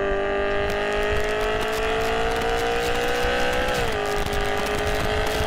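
BMW M3 E92's S65 V8 pulling hard at high revs. Its pitch climbs steadily, drops at an upshift about four seconds in, then starts climbing again.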